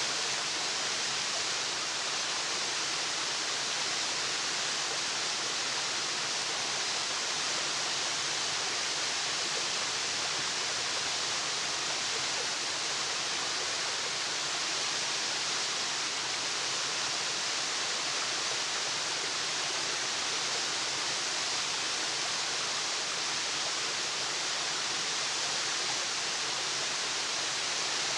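Waterfall: falling water rushing steadily, a bright, even hiss that does not change.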